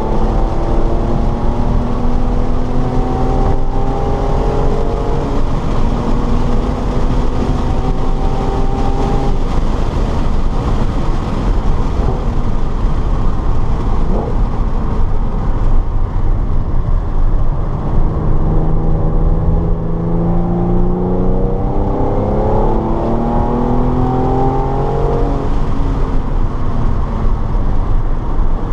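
Car engine accelerating hard through the gears at track pace, its pitch climbing and then dropping back at each upshift, twice in runs of several shifts, over constant road and wind rumble.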